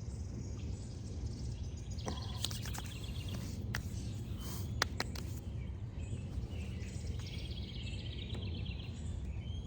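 Birds chirping in short trilled phrases, twice, over a steady low outdoor rumble, with a few sharp clicks in the middle.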